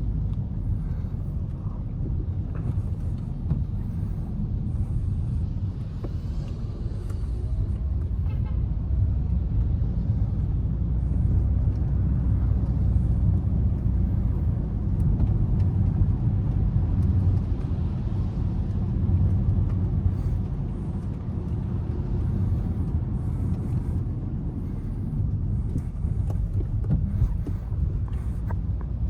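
A car driving through city traffic: a steady low rumble of engine and tyre noise that swells and eases a little with speed.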